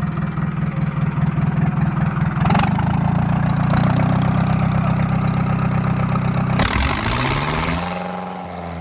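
Mahindra Arjun Novo tractor's diesel engine running loud with its newly fitted turbo. A loud hissing rush rides on the engine note until about two-thirds of the way through, then cuts off, and the engine drops back to a slower, quieter run.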